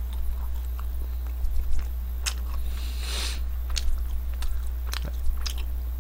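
A person chewing and biting a soft original glazed yeast doughnut close to the microphone, with scattered wet mouth clicks and a short breathy rush about three seconds in. A steady low hum runs underneath.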